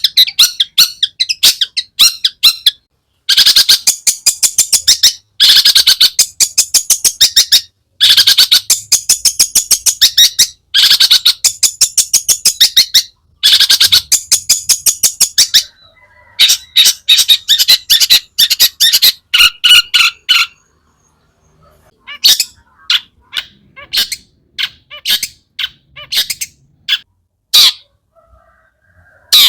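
Long-tailed shrike (cendet) singing: long runs of rapid, harsh, fast-repeated chattering notes, then sparser single calls and short phrases in the second half, with a brief pause about two-thirds of the way in.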